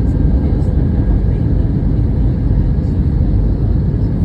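Steady cabin noise aboard an Airbus A320neo in flight: a loud, even rumble of engines and airflow, with no change in pitch or level.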